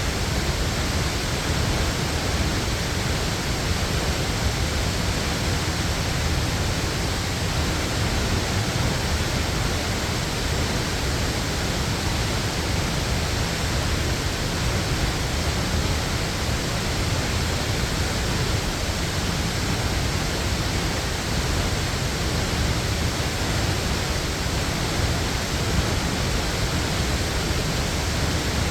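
Waterfall pouring steadily: an even, unbroken rush of water noise, heaviest in the low end.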